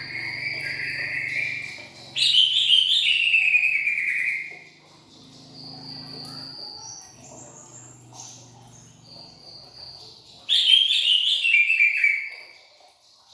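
Cucak ijo (leafbird) singing: two loud bursts of rapid notes falling in pitch, about two seconds in and again about ten seconds in, with softer drawn-out whistles between them.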